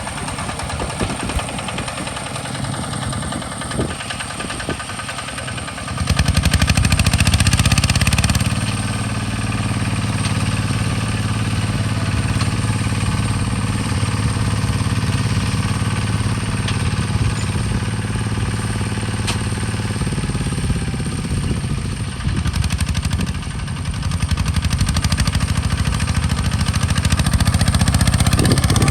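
Hinota HG Gold 155 DI hand tractor's diesel engine running with a steady clatter. About six seconds in it speeds up sharply and runs louder, settles a little after a couple of seconds, dips briefly past the two-thirds mark, then picks up again.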